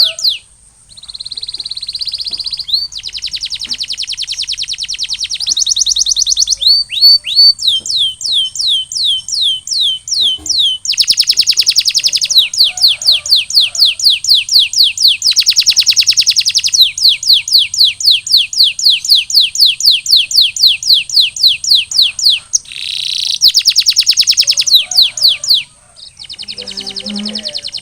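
Canary singing loudly in fast trills (rolls): series of rapidly repeated high sweeping notes, each tour changing pattern and speed every few seconds, with a few short breaks.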